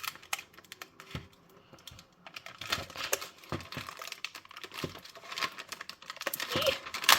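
Plastic packaging of mochi ice cream being picked at and pried open by hand: irregular small clicks, taps and crinkles, a few louder snaps near the end.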